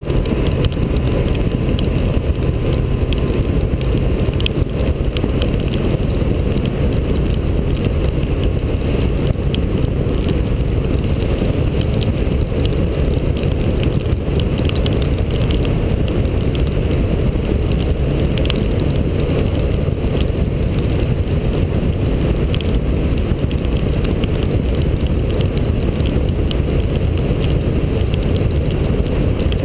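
Steady wind rush on a helmet-mounted camera at highway speed, with the inline-four engine of a 2010 Yamaha FZ1 Fazer running steadily beneath it.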